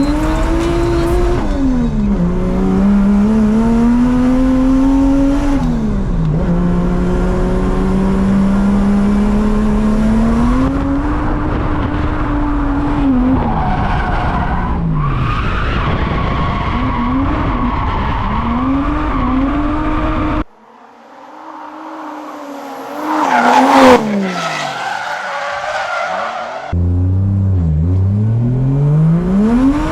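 Drift car engine revved hard, its pitch climbing and dropping again and again through the slides, with tyres squealing. About two-thirds of the way in the engine sound falls away for a few seconds and a loud tyre screech peaks before the engine comes back.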